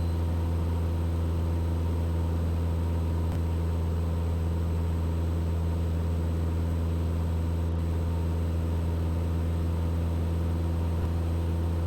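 Steady, low drone of a Mooney M20E's four-cylinder piston engine and propeller in level cruise, heard from inside the cockpit.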